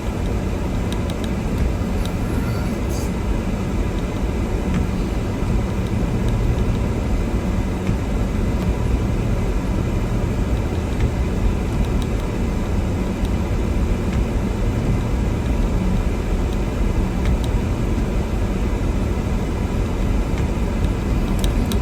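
Steady low engine and road noise of a Toyota Tundra pickup crawling through deep snow in first gear with four-wheel drive engaged, heard from inside the cab.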